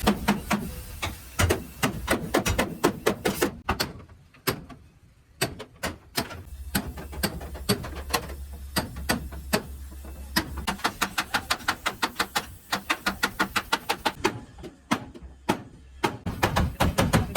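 Hammer strikes on metal: quick runs of sharp blows, several a second, broken by short pauses, as in panel-beating a damaged truck body.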